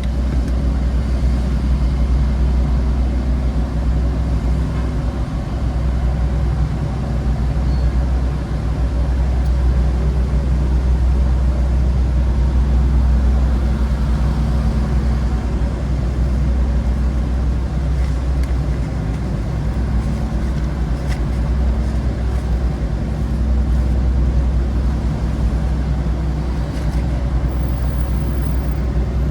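An engine running steadily with a low drone and a constant hum, holding one pitch without revving.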